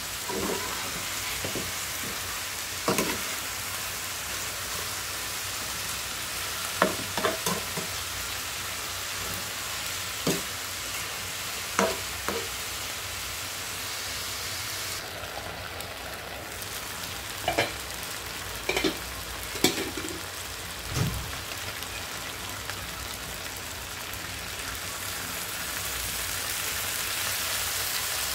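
Chicken pieces sizzling and simmering in a pan, a steady hiss with occasional sharp knocks of a spatula against the pan. Near the end the sizzle grows louder as soy sauce is poured in.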